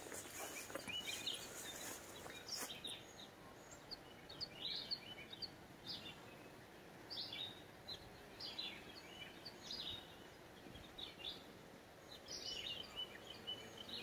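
Faint outdoor ambience with birds chirping: short, high calls every second or so over a soft steady hiss.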